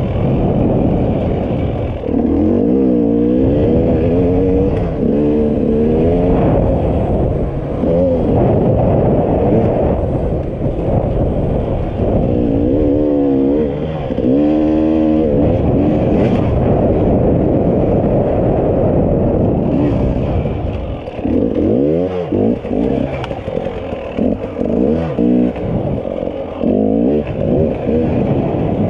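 Enduro motorcycle engine revving as the bike is ridden off-road, its pitch repeatedly rising and falling with throttle and gear changes. About two-thirds of the way through it drops back briefly and runs choppier before picking up again.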